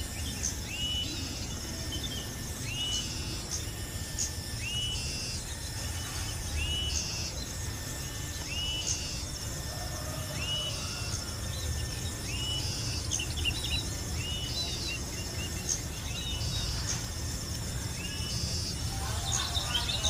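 A bird calling outdoors: one short, hooked note, rising then falling, repeated about every two seconds, with higher chirps in between over a steady low rumble. A busier burst of mixed sound comes near the end.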